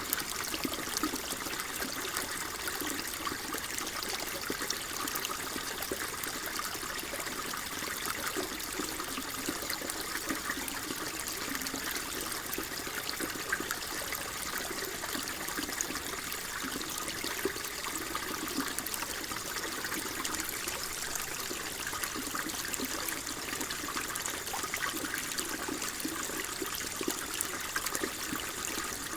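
Water flowing and trickling steadily, an even, unbroken rushing hiss with fine trickling texture.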